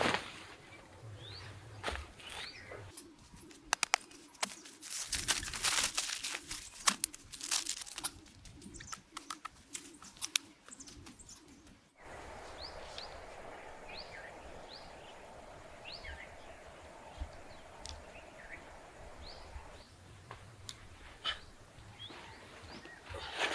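A run of crunching and clicking handling noises, then, after an abrupt change about halfway through, small birds chirping repeatedly with short falling calls over a steady hiss of background noise.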